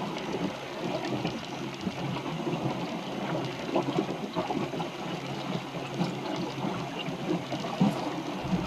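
Water sloshing and gurgling against the hull of a small wooden sailboat under way, an uneven wash with many small splashes.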